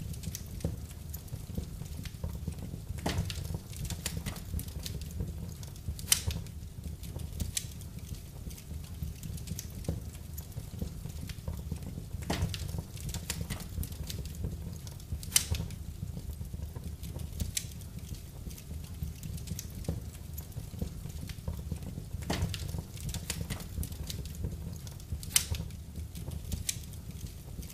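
Wood fire burning in a fireplace: a low steady rumble of flames with scattered crackles and a handful of sharp pops.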